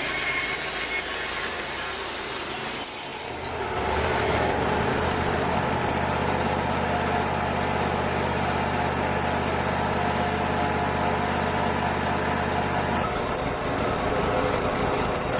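Bandsaw sawmill running while trimming cedar boards: a bright hissing cut at the start that fades out a little over three seconds in, then the mill's steady low engine hum, which drops away near the end.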